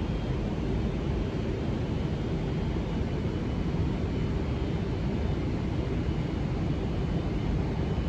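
Steady low rumble with an even hiss over it, unchanging throughout: the background noise of a railway station platform.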